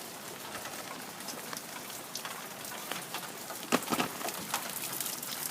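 Steady rain falling, with many close drips and patters of water and two louder splashes a little under four seconds in, as rainwater spills past the eaves troughs.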